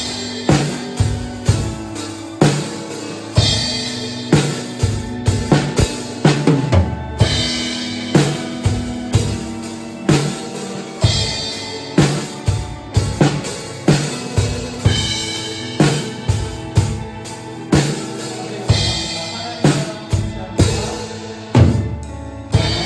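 Drum kit played along with a recorded worship song: a steady run of kick and snare hits with cymbal washes over the song's sustained chords.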